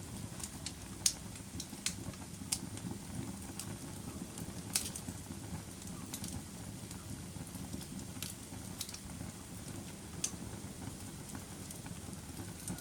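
Campfire burning: a steady low rumble of flame with sharp crackles and scattered louder pops of burning wood.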